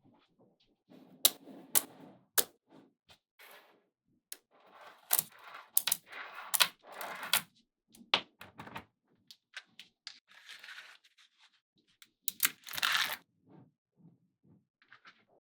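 Small magnetic balls clicking sharply as they snap together, at an irregular pace, with short stretches of rattling as clusters of balls shift against each other.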